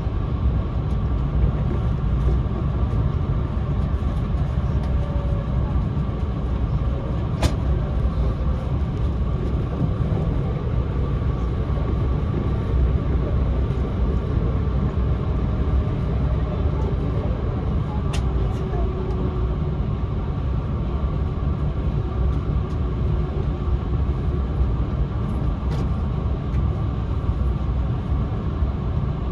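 Cabin noise of a JR East E4 series Max double-decker Shinkansen under way: a steady low rumble of the running train, with three short sharp clicks spread through it.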